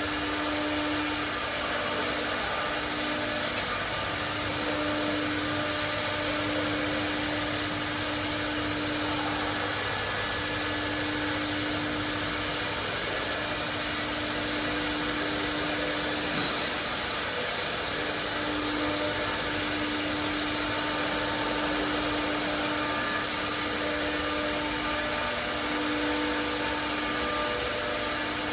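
4-axis CNC router's spindle running steadily: an even machine hiss with a steady tone that drops out briefly now and then.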